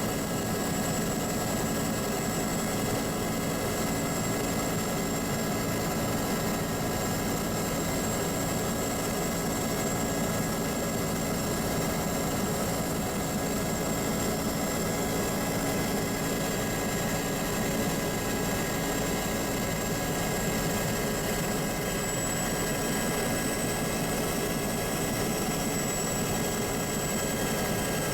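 Airliner engines running steadily in cruise, heard inside the cabin as an even rushing drone with a thin high whine held on top.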